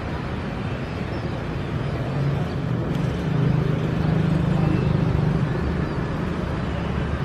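Steady low engine drone that swells a little in the middle and then eases off.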